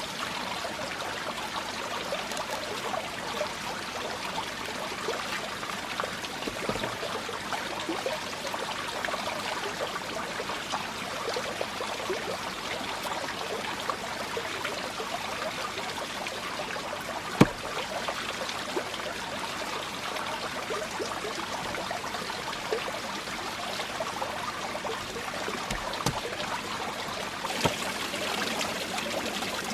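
Steady trickling rush of flowing water, with one sharp knock about midway and a couple of fainter taps near the end.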